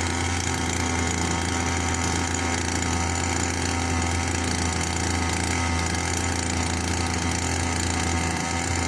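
Homemade boat motor powered by a grass trimmer's small engine, running steadily at an even speed.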